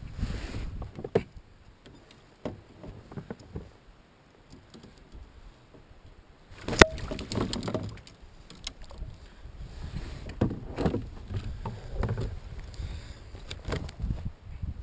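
Knocks and clatter of gear and handling against a kayak's hull, irregular and scattered, with one sharp loud knock about seven seconds in.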